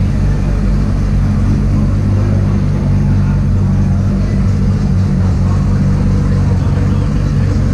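Parked cars' engines idling with a steady, loud low exhaust rumble, inside an undercover concrete car park.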